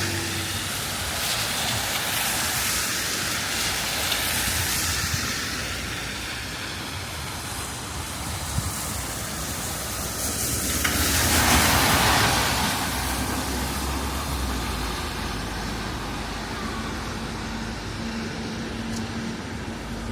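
City street traffic noise, with one vehicle passing close about halfway through, swelling and then fading.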